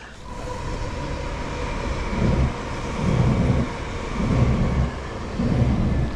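A train passing: a steady rumble with a faint whine, and low thumps about once a second from about two seconds in.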